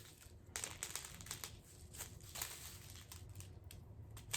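Faint, irregular rustling and crinkling of birdseed being handled on a paper plate, in short scattered strokes.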